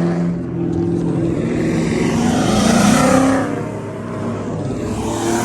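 A car engine revving and accelerating hard, getting louder to a peak about three seconds in and then fading as the car pulls away.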